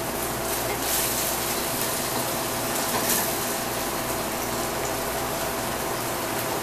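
Tofu frying in oil in a wok over a gas burner, a steady sizzling hiss over the even hum of a commercial kitchen exhaust hood. The sizzle flares up briefly about a second in and again about three seconds in.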